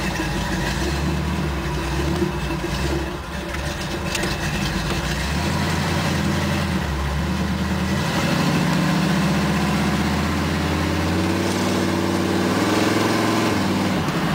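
Ford 428 V8 in a 1971 Ford F-100 pickup running, steady at first, then revving up with its pitch climbing twice in the second half.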